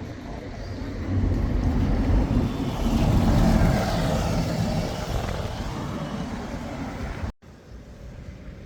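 Road vehicle noise that swells to a peak about three to four seconds in and then fades, before cutting off abruptly near the end.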